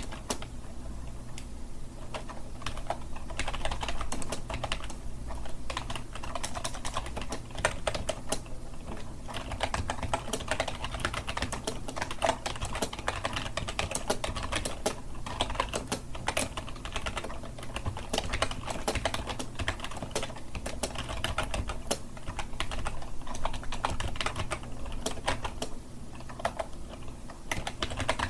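Fast continuous typing on a computer keyboard: a dense, uneven stream of key clicks with short pauses between bursts.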